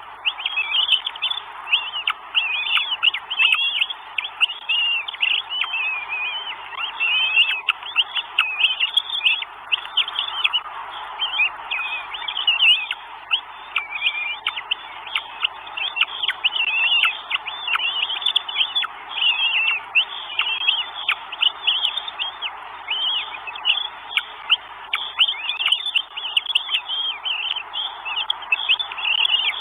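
Bird calls: a dense, unbroken stream of high-pitched chirps and whistles over a steady hiss.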